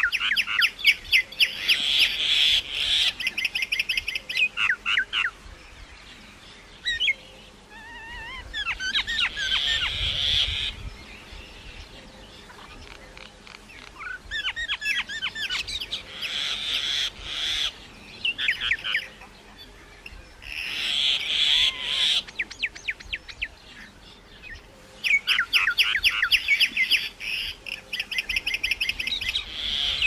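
Bird calls: bouts of rapid, high chirping notes lasting a few seconds each, repeated with short pauses between them, some notes sliding in pitch.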